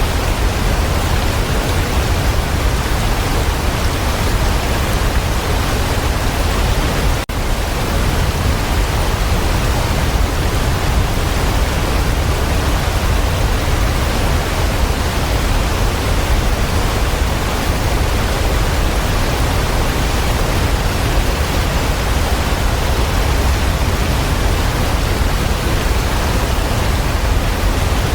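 Waterfall: a steady, dense rush of falling water, heavy in the low end, with a momentary dropout about seven seconds in.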